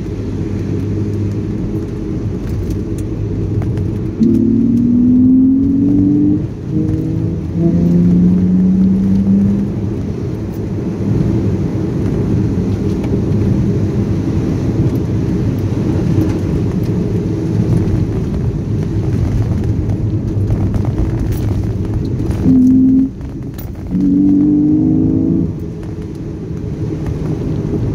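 BMW Z4 3.0i's M54 straight-six engine heard from inside the cabin, rising in pitch as it accelerates through the gears, with a brief dip and drop in pitch at each of two gear changes, over steady road rumble.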